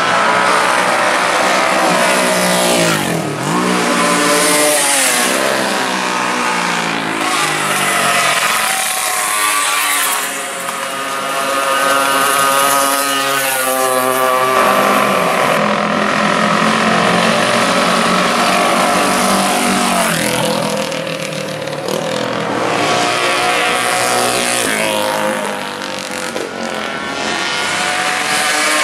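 Classic racing motorcycle engine running at high revs, its pitch climbing through the gears and dropping sharply several times when the throttle is closed.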